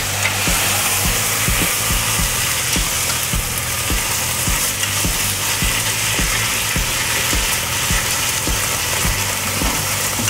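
Sliced pork and eggplant sizzling steadily as they are stir-fried together in a frying pan with long cooking chopsticks, with frequent light knocks of the chopsticks against the pan. The pan holds excess fat rendered from the pork.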